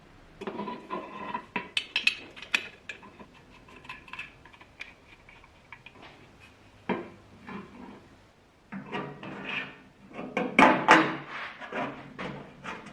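Small metal parts clinking and clattering as they are handled: a run of quick clicks in the first few seconds, one knock about seven seconds in, and a denser burst of clattering near the end.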